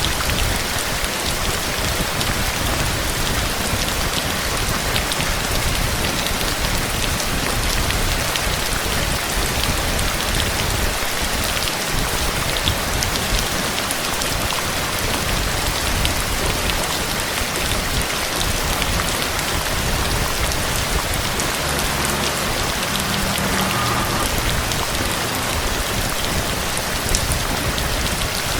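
Heavy, steady rain falling on a surface, a dense hiss with many small drop ticks.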